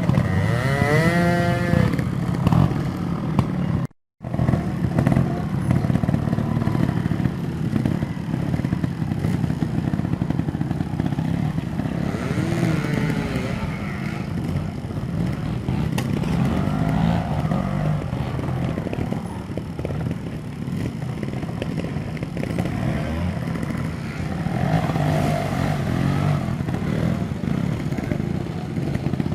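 Trial motorcycle engines running and revving in short bursts, with some clatter. The sound cuts out completely for a moment about four seconds in.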